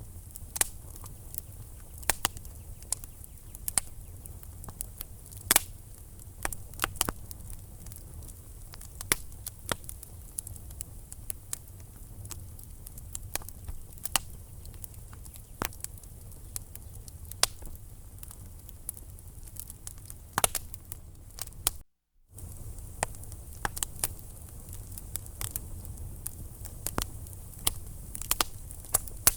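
Wood fire crackling in a fireplace: irregular sharp snaps and pops over a low steady rumble of the flames. The sound cuts out for a split second about three quarters of the way through.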